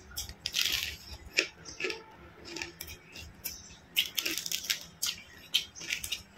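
Close-up mouth sounds of chewing fried chicken and fried rice: irregular wet smacks and crisp clicks, loudest about a second in and again around four seconds in.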